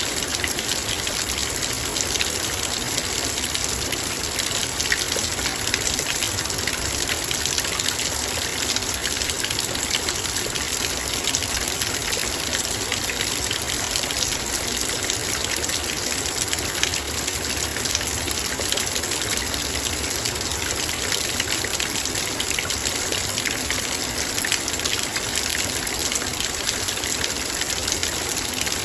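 Heavy rain falling steadily on a metal bowl: a dense, even stream of raindrops striking the metal.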